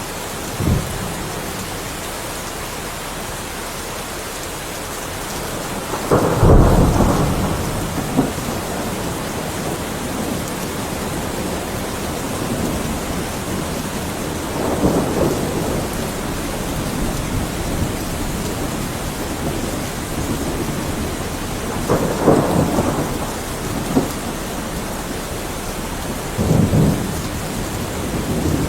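Heavy rain falling steadily, with several rolls of thunder: a short one right at the start, the loudest about six seconds in, and more around the middle and near the end.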